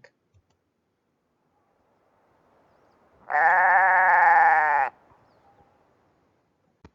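A single bleat of a sheep or goat, about a second and a half long, wavering in pitch.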